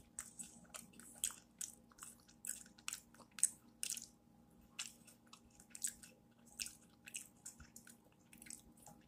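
A man biting and chewing food: faint, irregular chewing sounds, roughly two a second, with a fresh mouthful taken about four seconds in.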